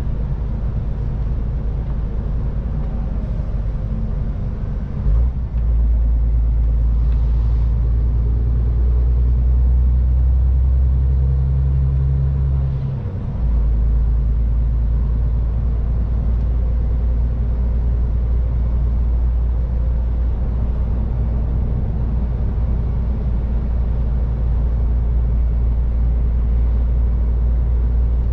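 MAN TGX 18.510 semi-truck's straight-six diesel engine running under way with road rumble, a steady low drone. Its note shifts about five seconds in, then dips briefly and changes again about thirteen seconds in.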